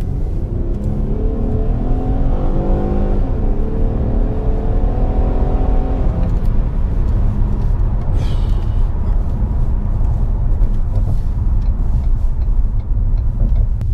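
A passing car's engine accelerating, its pitch climbing over about five seconds before fading out, over a steady low rumble of wind on the microphone.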